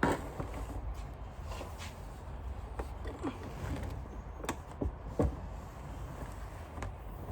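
Handling noise as a vacuum cleaner's power cord is wiped clean: scattered light knocks and clicks over a low rumble, with a sharper knock near the start and two more a little past halfway.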